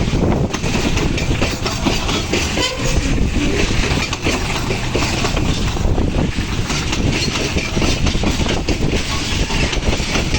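Loaded ore freight train rolling past, its wagons' wheels clattering steadily over the rails.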